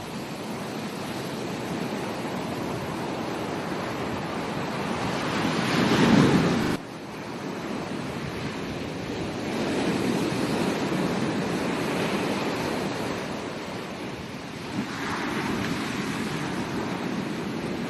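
Ocean surf breaking and washing up a beach in slow swells. The loudest wave crests about six seconds in and cuts off abruptly, and gentler swells follow.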